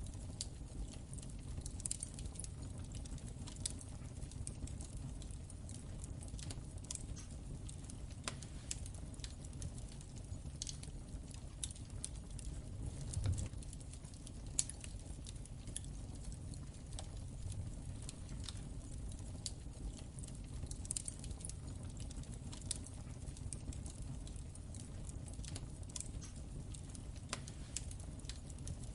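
Wood fire crackling in a fireplace: irregular sharp snaps and pops over a low, steady rumble.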